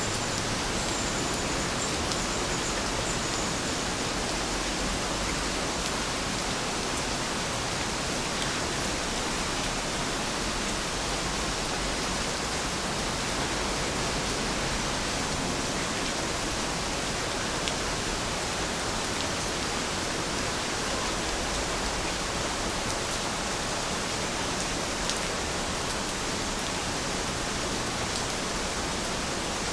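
Heavy rain falling steadily as an even hiss, with a few louder single drops standing out now and then.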